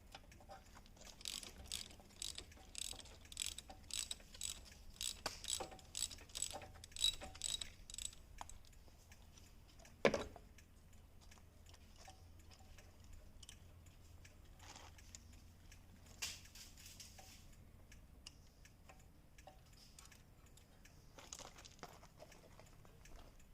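Ratchet wrench clicking in short, quick strokes, about two a second, while the spark plugs are worked out of the engine. About ten seconds in comes one sharp metallic knock, the loudest sound, followed by a few faint scrapes.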